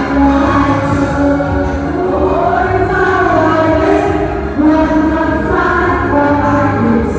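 A song: a choir singing sustained melodic phrases over instrumental accompaniment with a steady bass.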